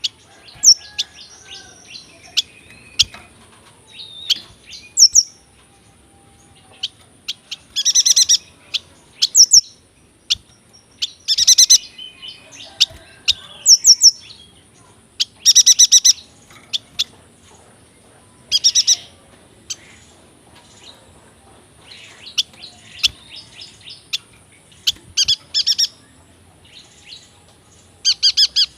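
Yuhina singing: spells of fast, high rattling trills about a second long, repeated every few seconds, with short chirps in between.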